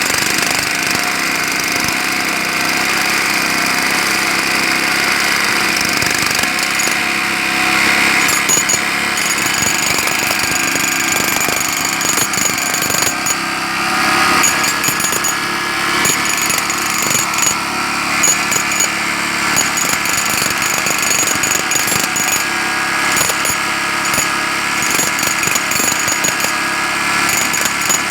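Jackhammer hammering continuously, a loud, steady run of rapid blows.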